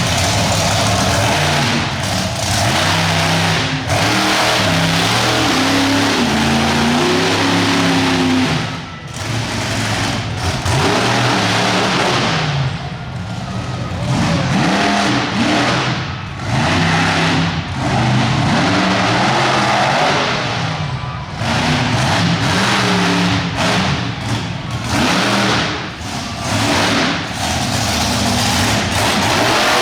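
Monster truck engine revving hard, its pitch climbing and falling as the throttle is worked, easing off briefly several times before surging again.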